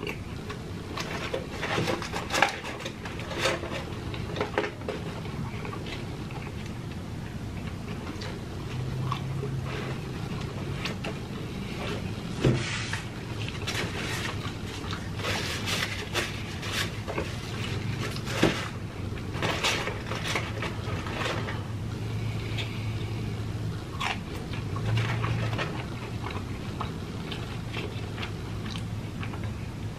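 A person chewing breaded fried chicken nuggets close to the microphone: irregular crunches and wet mouth clicks.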